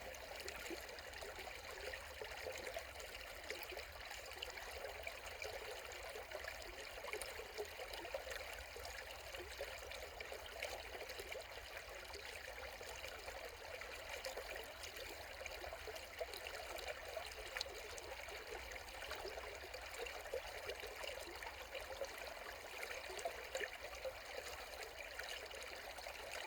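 Small brook trickling and babbling over stones, a steady flow of water that keeps an even level throughout.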